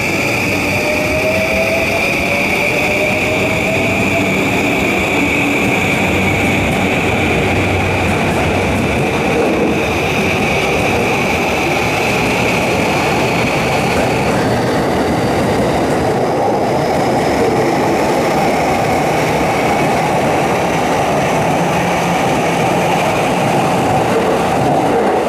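Electric commuter train running past the platform: a steady loud rumble of wheels on rail, with the traction motors' whine rising in pitch near the start and a high steady tone that drops out about halfway.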